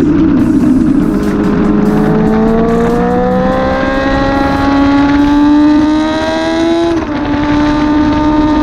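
Engine accelerating hard under load, its pitch climbing slowly and steadily, then a gear change about seven seconds in drops the pitch before it runs on.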